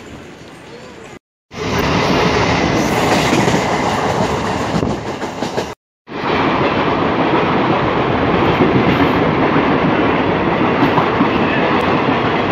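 Indian Railways passenger train running past, a steady loud rush of rolling noise from its wheels and coaches. The sound cuts out to silence twice: briefly about a second in, and again just before the middle.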